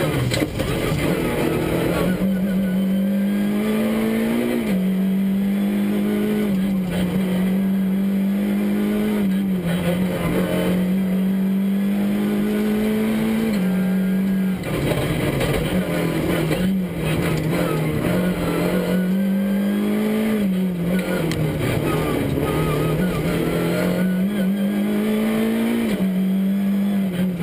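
Škoda Fabia R2 rally car's 1.6-litre four-cylinder engine at full load, heard from inside the cabin. Its pitch climbs steadily in each gear and drops sharply at each gear change, several times over.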